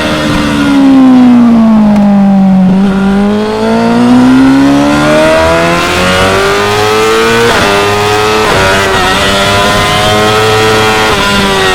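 2016 Yamaha R6's inline-four engine at high revs. The revs fall smoothly for a couple of seconds as the throttle comes off, then climb hard under acceleration, broken by three quick upshifts in the second half.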